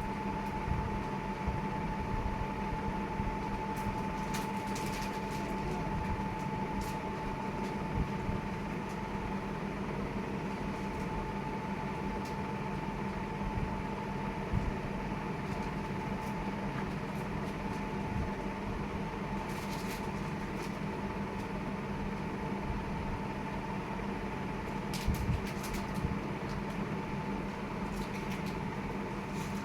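Steady mechanical hum with a constant tone, like a running fan or appliance, with a few light clicks.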